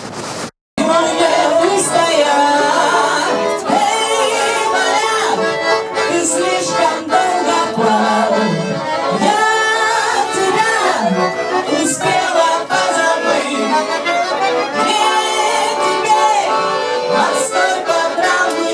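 Accordion music with a lively melody, starting abruptly after a short dropout just under a second in.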